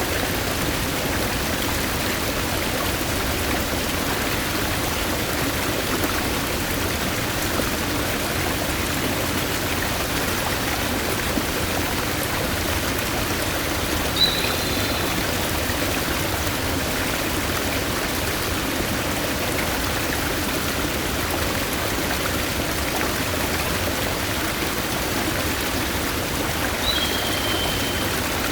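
Steady rush of a flowing stream. A bird gives a short whistled call, dropping slightly in pitch, twice: about halfway through and near the end.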